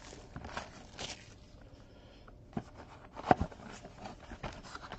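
Soft rustling and light clicks of trading cards and their packaging being handled, with a sharper click a little past the middle.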